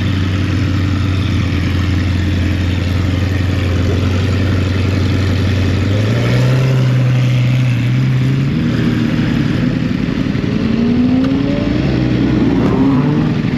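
Sport motorcycle engines running at speed with wind and road noise; the engine note holds steady, steps up about six seconds in, then several engines rise in pitch together as they accelerate.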